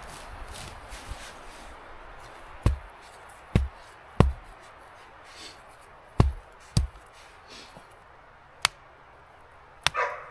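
An axe chopping into wood: about seven sharp strikes at an irregular pace.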